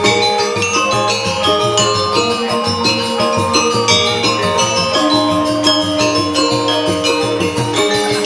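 Balinese gamelan music: bronze metallophones playing quick, dense ringing note patterns over a steady low beat.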